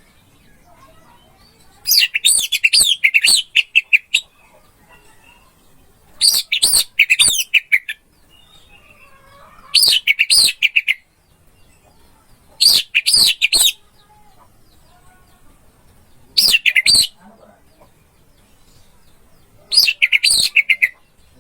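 Orange-headed thrush singing: six short phrases of rapid, high, twittering notes, each a second or two long, separated by pauses of two to three seconds.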